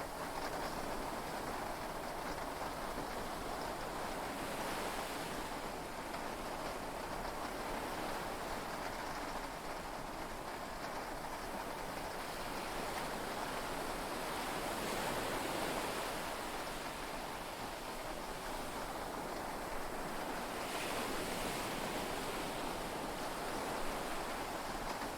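Heavy rain and sea waves heard from inside a yacht cabin: a steady wash of noise that swells and eases, a little louder about fifteen seconds in.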